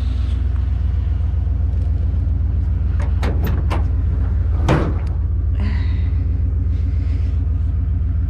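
Pickup truck engine idling with a steady low hum. A few sharp knocks come about three to five seconds in, the loudest a clunk near five seconds.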